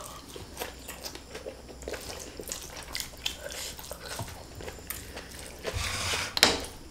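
Close-miked chewing and mouth sounds of people eating fried flat rice noodles: many small wet clicks and smacks, with a louder burst of noise near the end.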